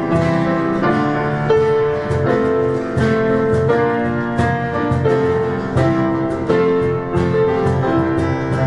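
Instrumental music led by piano or keyboard, held notes and chords changing about once a second.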